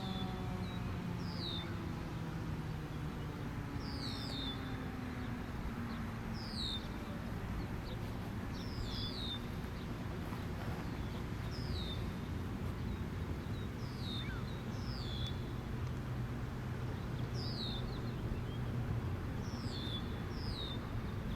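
A small bird chirping, short falling chirps in pairs every two to three seconds, over steady low background hum. The last of a Federal Signal Thunderbolt 1000 siren's wind-down fades out in the first few seconds.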